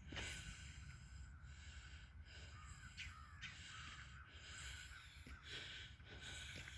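Faint outdoor bird calls, with a crow cawing, over a low rumble.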